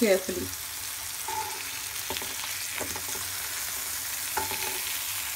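Stuffed mushrooms and cubed capsicum and tomato sizzling in oil on a hot non-stick tawa. A flat spatula scrapes and taps against the pan a few times as the pieces are turned over.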